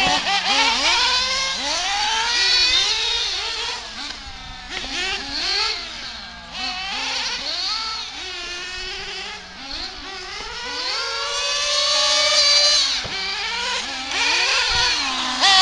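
Several nitro RC buggies running, their small two-stroke glow engines revving up and down all the time, with high overlapping pitches that keep rising and falling.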